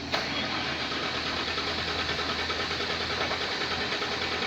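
Hino 500 truck's diesel engine running steadily at idle, with a fast, even pulse.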